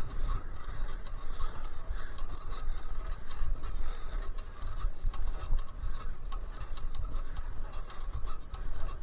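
Wind rumbling on the microphone as a fixed-gear bicycle is ridden uphill, with the steady hum of the ride and many light, irregular ticks.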